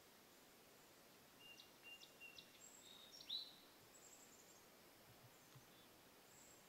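Faint bird chirps and short high whistles over near silence. They cluster from about one and a half to three and a half seconds in, the loudest a quick note near the middle, with a few fainter high notes later.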